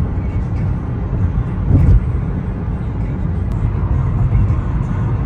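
Street traffic noise: a steady low rumble of passing vehicles, with a brief louder bump about two seconds in.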